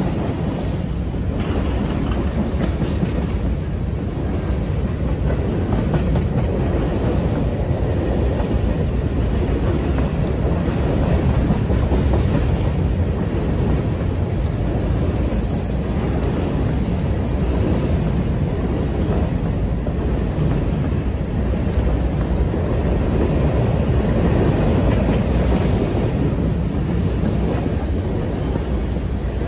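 A freight train's covered hopper cars rolling past on the rails: a steady, continuous rumble of wheels and car bodies.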